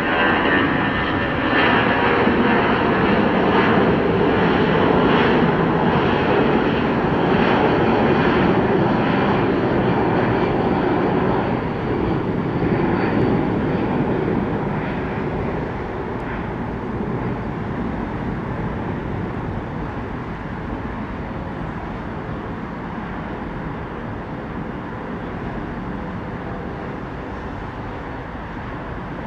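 Jet airliner's engines at takeoff power as it departs, with a thin high whine above the noise. Loudest over the first dozen seconds, then fading steadily as the plane climbs away.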